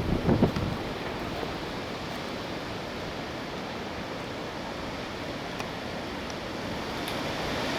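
Strong wind of a passing cold front, a steady rushing noise, with a brief louder low rumble of buffeting about half a second in.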